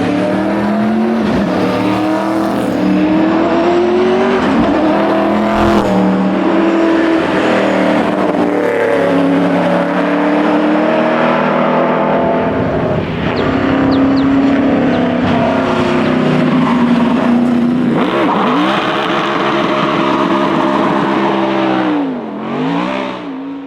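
Ford Falcon XD Phase 5 rally car's engine under hard acceleration, revs climbing and dropping sharply at each gear change, with a dip and quick rise in revs near the end before the sound fades out.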